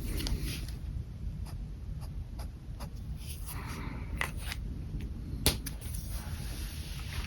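Pen scratching on paper in short sketching strokes, with light ticks and taps of the pen. One sharper click comes about five and a half seconds in.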